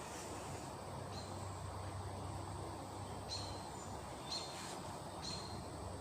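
A small bird giving short, high chirps, about one a second, over a low steady hum.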